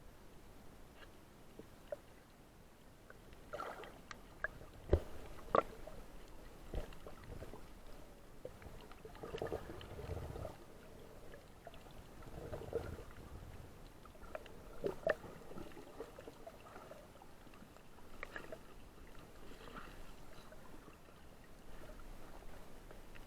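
Faint, muffled water sounds, sloshing and gurgling, with scattered sharp clicks and knocks.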